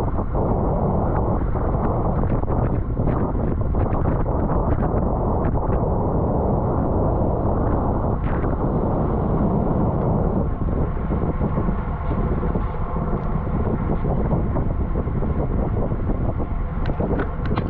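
Wind rushing over a bike-mounted camera microphone while riding a road bike at race speed: a loud, steady roar heaviest in the low end. A few light clicks come near the end.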